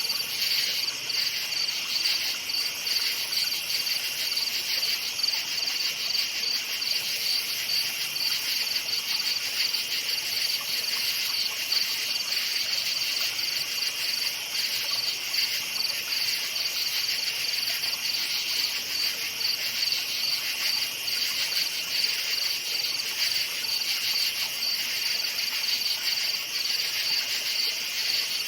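Crickets chirping in a steady, dense chorus, a continuous high pulsing trill.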